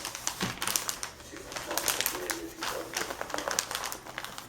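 Gift-wrapping paper crinkling and rustling in a series of quick crackly handling noises, with sticky tape being pulled and torn as a present is wrapped.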